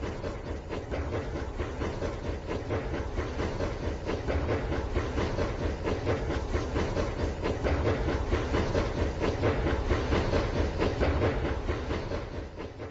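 Rail King toy train running along its track: a steady stream of rapid clicks and rattle over a motor hum. It grows louder through the middle and eases off near the end.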